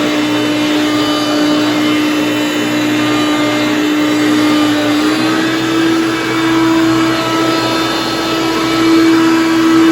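Hoover Concept One upright vacuum cleaner running with a steady motor whine. Its pitch steps up slightly about halfway through.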